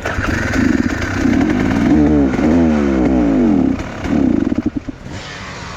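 Enduro motorcycle engine revving in repeated bursts, its pitch sweeping down and back up in the middle, then easing off near the end.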